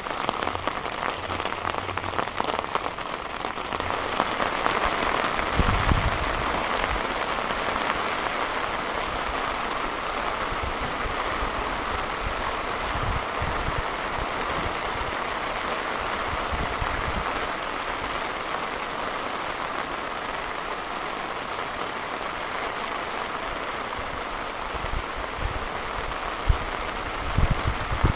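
Heavy rain falling steadily, an even hiss of drops, with brief low rumbles a few times.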